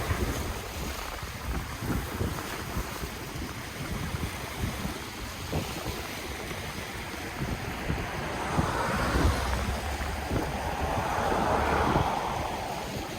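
Ocean waves washing onto the shore, with wind buffeting the microphone in low rumbles. A wave swells and washes in a little past halfway, and another builds and fades near the end.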